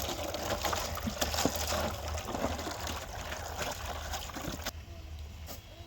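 Water trickling and splashing, with many small clicks, cutting off abruptly about three-quarters of the way through.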